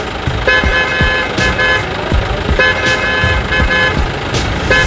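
Electronic horn sounding a repeating pattern of short beeps. The pattern starts over about every two seconds, with a few sharp clicks between.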